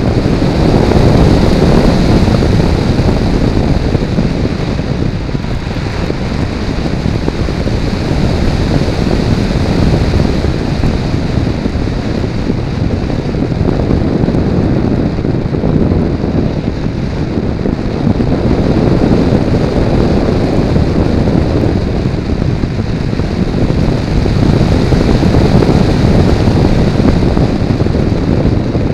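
Airflow rushing over the microphone of a camera mounted on a Multiplex Blizzard RC model plane in flight: a loud, rough rush that swells and eases.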